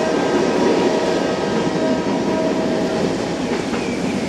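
Train running past close by, a steady rumble of wheels on the rails, with a faint high wheel squeal near the end.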